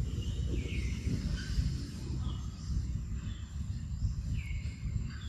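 Forest birds calling with short downward-sliding notes, the clearest about a second in and again near the end, over a constant low rumble and a thin steady high tone.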